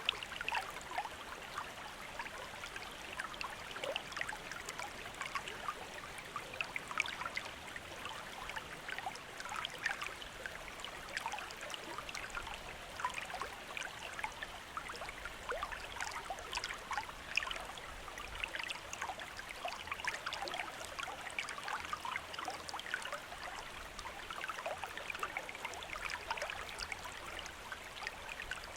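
A shallow stream running and babbling over stones: a steady rush of water with many small splashes and bubbles.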